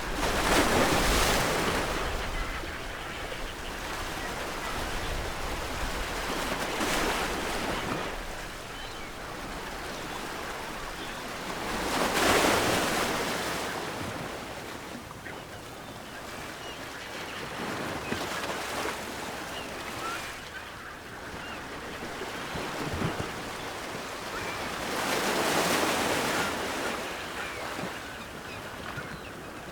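Ocean waves breaking on a shore, with a wave surging in every five to seven seconds over a steady wash of surf.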